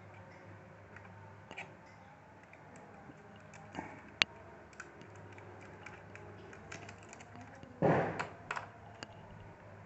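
Small scattered clicks and ticks of a screwdriver and tiny screws being worked on a laptop's plastic case, over a low steady hum. One sharp click comes about four seconds in, and a brief louder clatter near the end.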